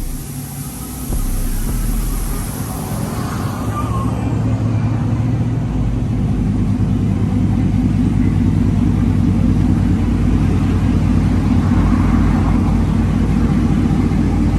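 Pickup truck engine running under load as it drives through a mud hole, getting louder over the first several seconds, with mud and water spraying.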